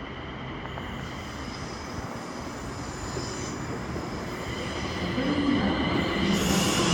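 ScotRail passenger train drawing into the platform, growing steadily louder, with thin high-pitched squealing tones over the rumble of the wheels.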